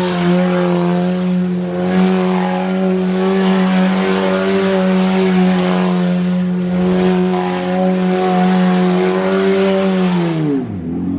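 Car engine held at high revs through a long burnout, with the noise of the spinning tyres laid over it. About ten seconds in, the revs drop sharply.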